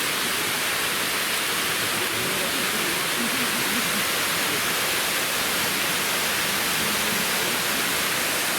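Steady rush of falling water, an even hiss that holds the same level throughout.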